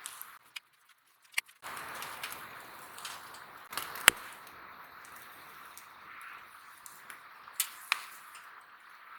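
Skewers grilling over a campfire: a steady sizzling hiss with several sharp pops from the fire, the loudest about four seconds in. The sound drops out briefly about half a second in.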